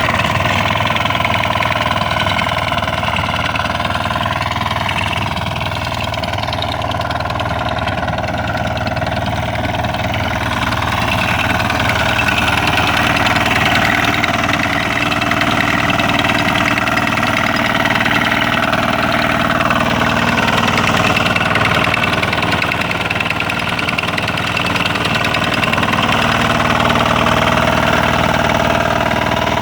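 Small single-cylinder engine of a Motor Sich walk-behind tractor running steadily while it drives a rotary tiller, with slight, slow rises and falls in pitch as the load changes.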